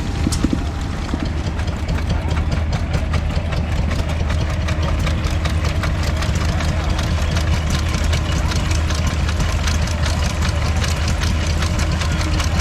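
Old stationary engine running steadily, a low rumble with a quick, regular clatter of strokes.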